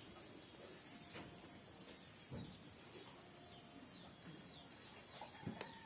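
Faint steady high-pitched insect drone with scattered faint bird chirps, and a few soft knocks, the sharpest a click near the end.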